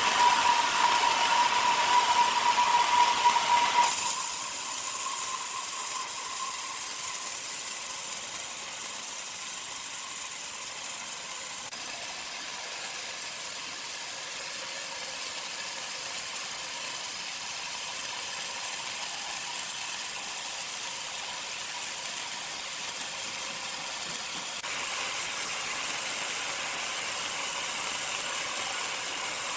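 Sawmill machinery running: steady mechanical clatter and hiss, with a high steady whine over it for the first four seconds. The sound drops abruptly about four seconds in and steps up again near the end.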